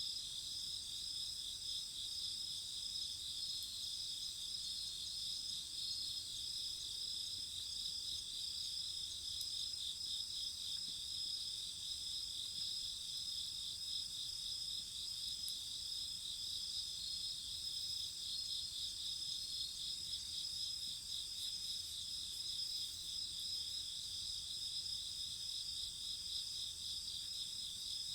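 Steady chorus of crickets chirping, several insects overlapping in fast, pulsing trills that never let up.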